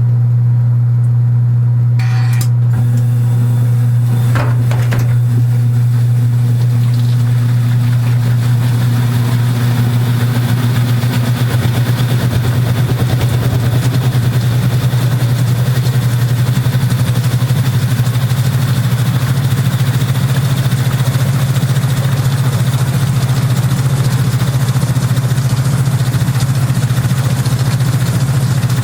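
Kenmore belt-drive portable washing machine running mid-cycle: a steady low motor hum and buzz, a couple of sharp clicks a few seconds in, then a broad rushing, churning noise building up from about six seconds in.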